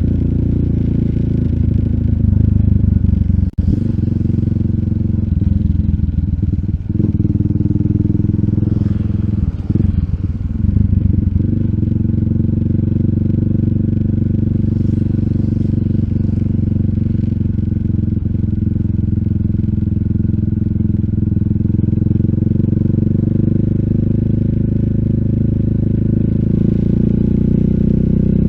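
RUSI Classic 250Fi motorcycle engine running steadily through an Eli's Muffler full exhaust with a bullet slip-on pipe and dB killer while riding. About three and a half seconds in the sound drops out for a moment.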